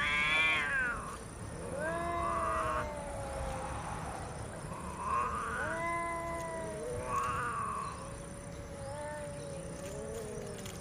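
Two domestic cats yowling at each other in a fight standoff: long drawn-out caterwauls that waver up and down in pitch and sometimes overlap. The loudest, shrillest yowl comes right at the start, and the calls turn lower and softer near the end.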